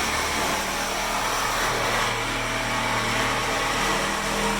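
A power tool running steadily in a body shop during rust-repair work on the car's metal panels.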